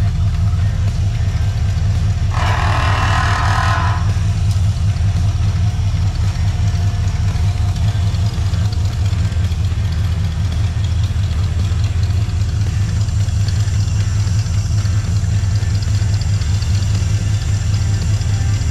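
Ford 351 Windsor small-block V8 idling steadily, running through its exhaust pipe and muffler. About two seconds in, a short hiss lasts about a second and a half.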